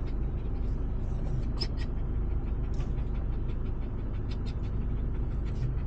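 Camper van engine running with a steady low rumble, heard from inside the cab, with a few faint short high-pitched squeaks over it.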